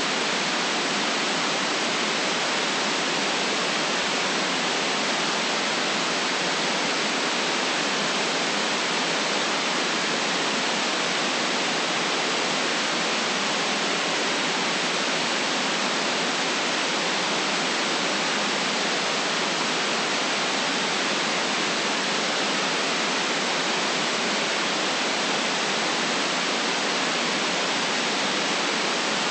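Steady, unchanging white noise: an even hiss with no breaks, no events and no low rumble.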